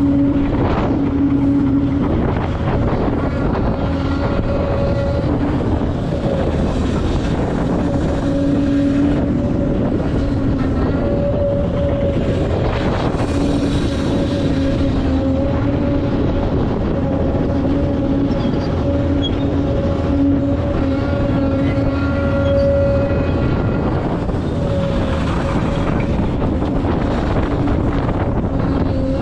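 Heavy diesel earthmoving machinery running: a Volvo EC950F excavator at work and Volvo A60H articulated dump trucks. It is a loud, steady engine drone with a pitched whine that swells and fades every few seconds.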